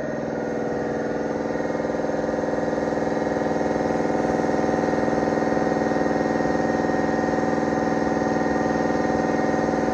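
A motor running steadily with an even, unchanging drone, growing slightly louder over the first few seconds.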